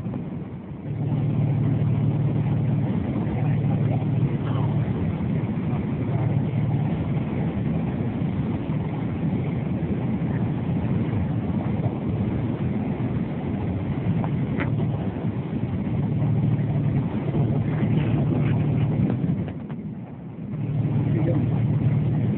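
An engine running steadily, dropping away briefly twice, once just after the start and once near the end.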